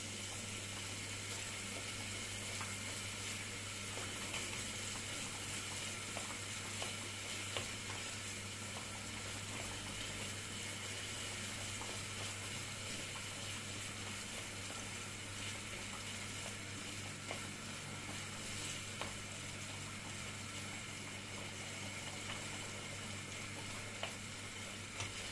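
Minced onion and tomato paste frying gently in butter in a small pan: a quiet, steady sizzle as a wooden spoon stirs and scrapes them around, with a few faint taps of the spoon against the pan, over a steady low hum.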